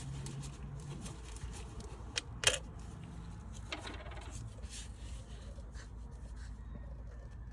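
A few sharp plastic clicks and rubs from handling the oil bottle and funnel as the new oil is about to go in, the loudest click about two and a half seconds in, over a low steady hum.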